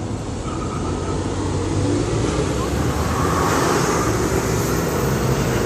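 A motor vehicle passing on a nearby road: a steady low rumble with tyre noise that swells to its loudest about three and a half seconds in and then eases.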